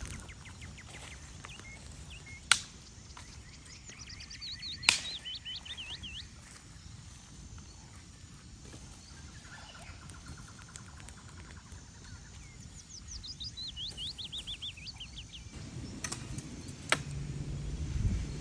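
A songbird singing twice, each song a quick run of notes falling in pitch, over a steady low rumble, with a few sharp cracks.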